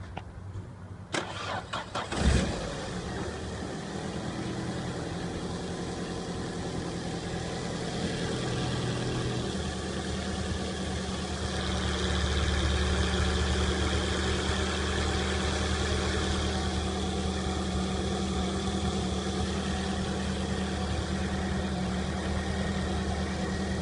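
Ford Focus 2's 2.0-litre petrol four-cylinder (EDDC) being cranked by the starter for about a second, catching with a loud burst, then idling steadily. About ten seconds in, the idle changes note and grows a little louder.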